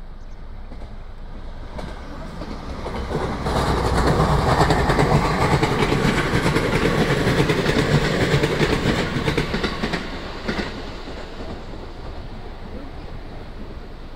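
JR West 227 series electric train passing on the rails: the rumble builds over a couple of seconds, stays loud for about six seconds, then fades away.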